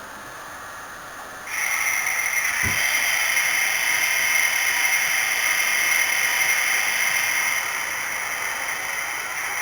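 The sound module of a Brawa H0 model BR 232 diesel locomotive, playing its engine sound through a small loudspeaker. The sound comes on abruptly about one and a half seconds in and then runs steadily. A brief low thump follows about a second later.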